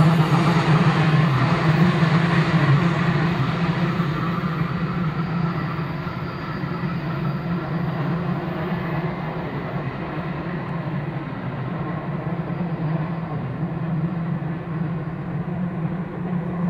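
Freight train running by with a steady low drone, fading and growing duller over the first several seconds as it moves away, then holding at a lower level.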